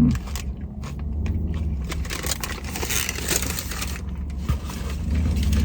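Close-up crunching and crackling of someone biting and chewing a hard-shell taco, loudest about two to three and a half seconds in, over a steady low rumble.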